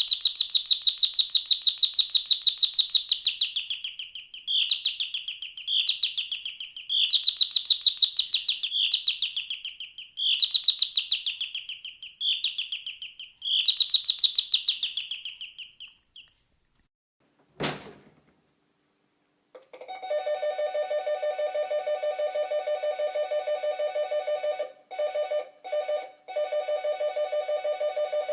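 Bird-song doorbell chime playing a series of fast warbling trills in separate bursts. Then a single click, and from about twenty seconds in an electric doorbell buzzing in a fast, even rattle, broken by short gaps near the end.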